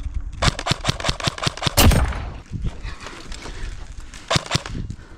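Airsoft electric rifle firing on full auto: a rapid burst of about a dozen shots, then a short burst of two or three shots about four seconds in.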